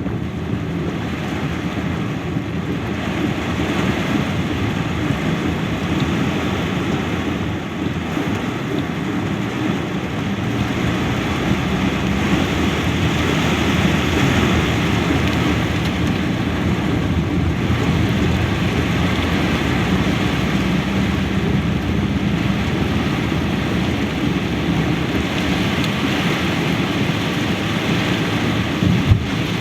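Heavy downpour: a steady rush of rain that swells a little midway, with a short knock near the end.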